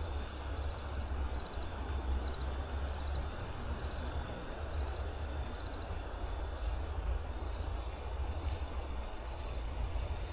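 Small creek flowing, a steady wash of water, with low wind rumble on the microphone. A short, high chirp repeats about every two-thirds of a second throughout.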